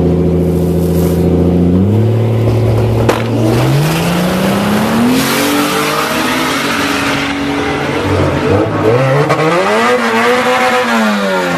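Turbocharged Toyota Supra engine revving: it holds steady at first, then climbs in pitch twice through the revs and falls again near the end. There is a sharp click about three seconds in, and a hissing noise over the middle stretch.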